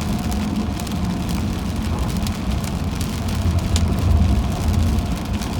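Car cabin road noise while driving in rain: a steady low rumble from tyres and engine, swelling a little about four seconds in, with scattered sharp ticks of raindrops hitting the car.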